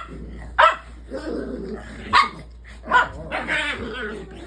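Dog barking: three sharp, loud barks spaced about a second apart, with lower, longer sounds from the dog in between.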